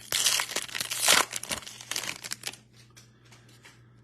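Foil wrapper of a Bowman baseball card pack being torn open and crinkled. It is busy and crackly for about two and a half seconds, then trails off into a few light ticks.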